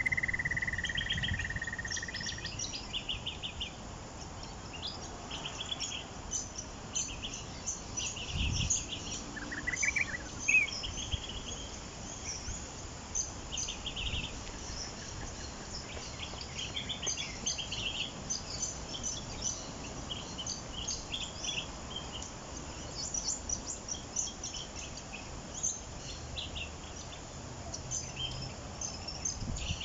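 Several small birds chirping and trilling, with many short, high calls overlapping throughout and a long whistle that slides down in pitch at the start.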